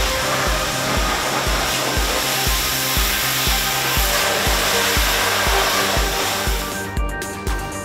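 Loud, steady rushing of car wash tunnel equipment, heard over background music with a steady beat; the rushing stops about seven seconds in, leaving the music.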